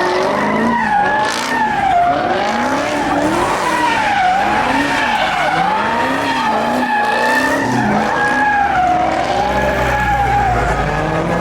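A car spinning donuts, its tyres squealing in a wavering pitch that rises and falls over and over, with the engine revving underneath.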